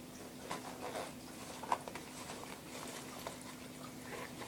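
Fabric rustling and small clicks as a pocket on a fly-fishing vest is worked open, with one sharper click a little under two seconds in.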